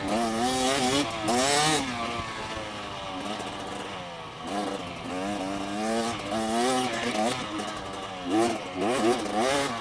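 Two-stroke dirt bike engine being ridden on a trail, revving up and dropping back again and again as the throttle opens and closes and the gears change.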